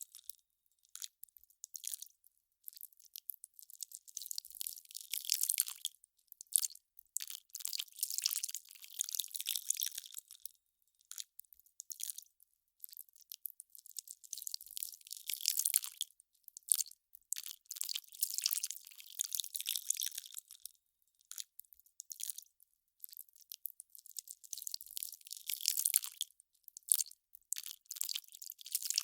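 Melting ice crackling: irregular clusters of fine, sharp crackles, high-pitched with no low end, broken by short pauses.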